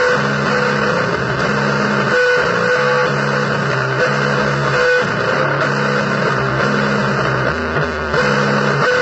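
Harsh noise music: a dense, distorted wash with guitar-like tones and a low figure that repeats every second or so.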